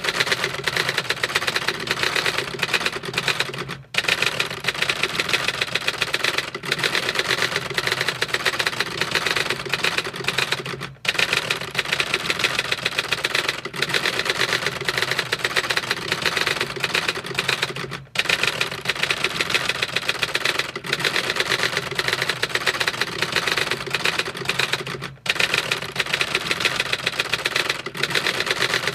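Continuous rapid mechanical clatter of dense clicks, like fast typing, with a brief break about every seven seconds.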